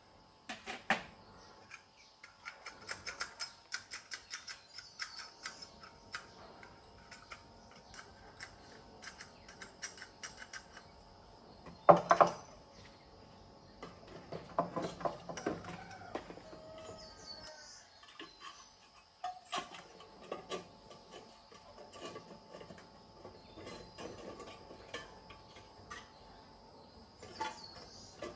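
Scattered clicks, taps and clinks of small hard parts being handled, with the sharpest knock about halfway through.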